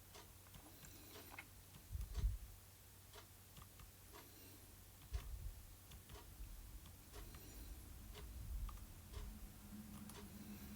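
Faint, irregular clicks and light taps, a few a second at most, with soft high squeaks now and then, over quiet room tone.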